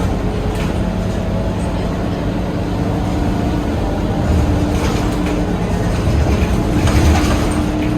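Scania K230UB city bus driving, its diesel engine giving a steady drone over low road rumble. The engine tone steps up slightly partway through, and there are a few heavier low thumps.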